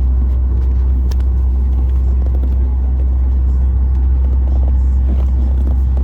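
Boeing 737 MAX 8's right-hand engine (engine 2, a CFM LEAP-1B turbofan) going through its start sequence, heard inside the cabin as a loud, steady low rumble.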